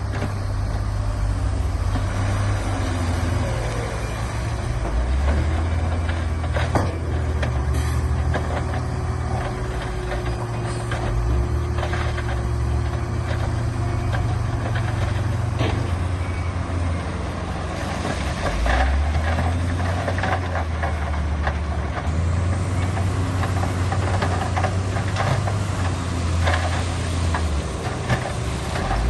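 Diesel engines of heavy earthmoving machinery running, the deep rumble rising and easing with load, with a scattering of sharp clanks and knocks.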